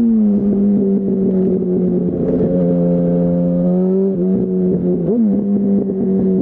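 2008 Yamaha R1's inline-four engine through a Termignoni full exhaust, its pitch falling in the first half second as revs drop, then running steadily at lower revs with a quick blip of the throttle about five seconds in.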